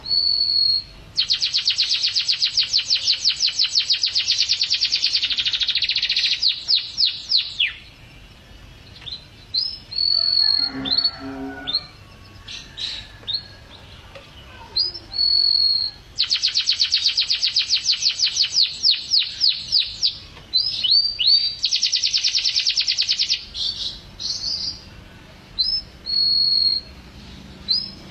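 Domestic canary singing: long, fast trills of rapidly repeated high notes alternating with short, clear whistled notes.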